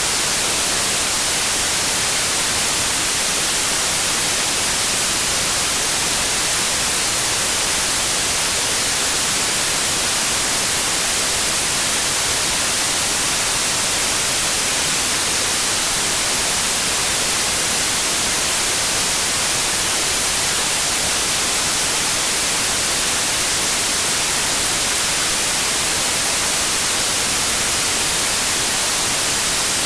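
Steady, loud white noise from a noise generator: an even, unchanging hiss, brightest in the treble.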